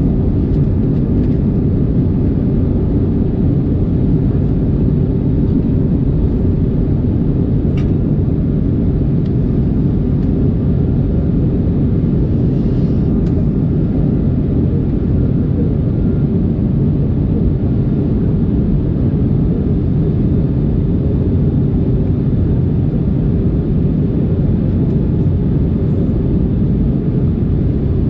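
Steady low rumble of an Airbus A321neo's cabin in flight: airflow and engine noise heard from a passenger seat during the descent.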